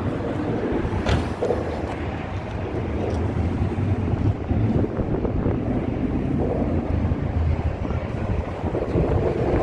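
Steady low rumble of vehicles, with wind buffeting the microphone.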